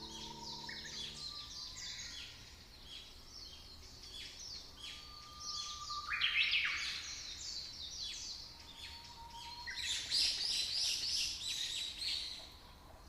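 Small birds chirping: a rapid stream of short, high chirps overlapping one another, busiest about halfway through and again near the end. A held musical chord fades out in the first second.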